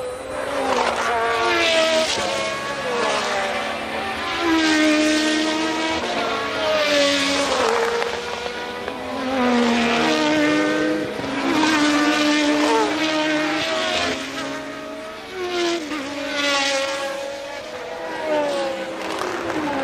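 Several 1982 Formula One cars racing past one after another, their engines revving up through the gears and falling away as each car goes by.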